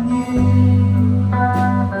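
Live band music: guitar over a steady bass line, with sustained chords that change twice.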